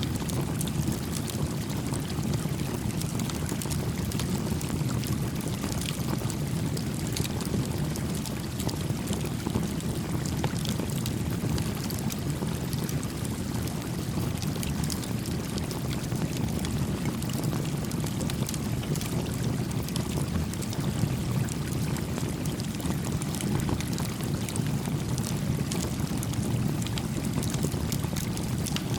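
Small campfire crackling, with frequent sharp snaps and pops, over a steady, gently flowing creek.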